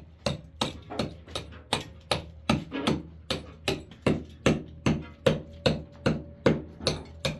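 Repeated blows of a mason's hatchet (tisheh) chipping into a wall, at a steady rhythm of about three strikes a second. Each blow lands as a sharp knock.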